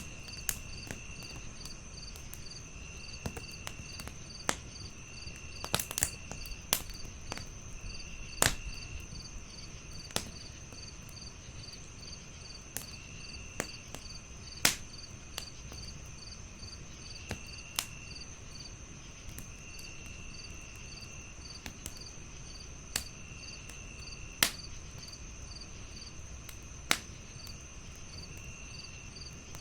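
Crickets chirping steadily in fast high pulses, with a lower cricket trill coming in spells about a second long every few seconds. Under them a wood fire crackles with a low rustle and irregular sharp pops, the pops being the loudest sounds.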